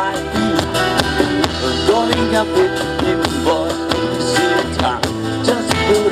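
Live band music: an instrumental passage with guitar to the fore, a melody line gliding over steady bass notes.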